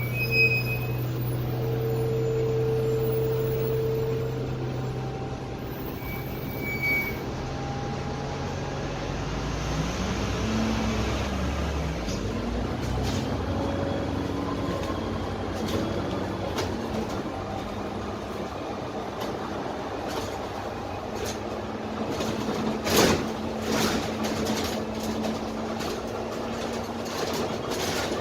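Inside a Dennis Trident 12-metre double-decker bus, the Cummins ISMe diesel engine runs with a steady low drone. About ten seconds in, its pitch swoops up and down, then settles into a steadier, higher drone. A sharp knock comes a little past twenty seconds in.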